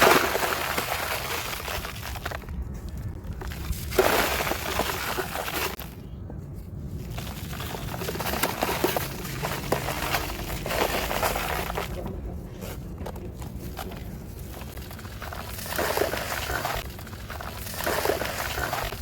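Dry, crunchy material crumbling and breaking apart, in several bursts of crisp crackling with short lulls between.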